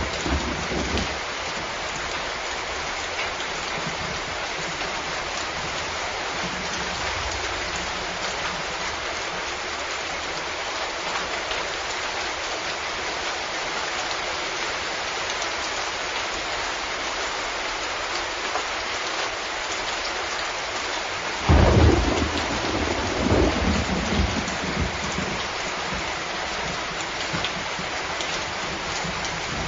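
Steady rain falling, with a sudden thunderclap about two-thirds of the way through that rumbles on for a few seconds before fading back into the rain.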